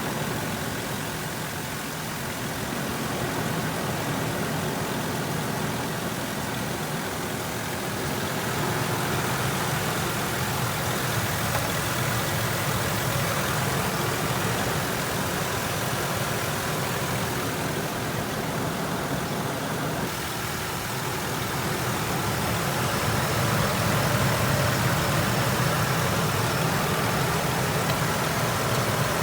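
Ford F-150's 4.2-litre V6 idling steadily, which the owner says is running a little rough and wanting to cut out, likely a misfire on a cylinder or two.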